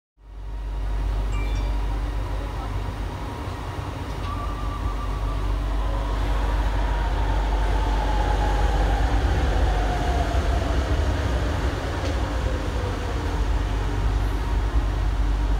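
Light rail train heard from inside its front car while running: a steady low rumble and rush of the ride, with a whine that slowly falls in pitch over several seconds.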